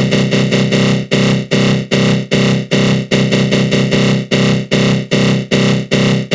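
Synthesized 'attack growl' sound effect: a loud, dense, buzzy synth tone (GMS synth with a flanger) pulsing in even beats about two and a half times a second.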